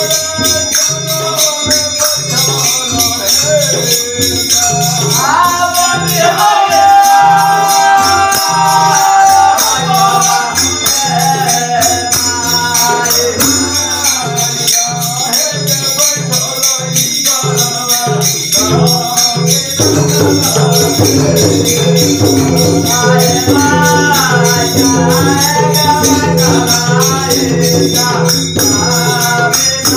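Bhajan devotional music: a hand drum beats a steady rhythm while jhal, small brass hand cymbals, clash continuously. A singing voice comes in with a long held, wavering line about five seconds in and sings again from about two-thirds of the way through.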